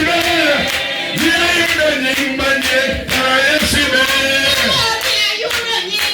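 A crowd of men and women singing a praise song together, with steady hand clapping keeping the beat.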